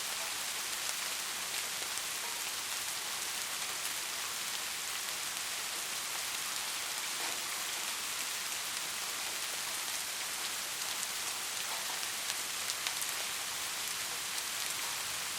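Steady rain falling: an even hiss dotted with faint ticks of single drops.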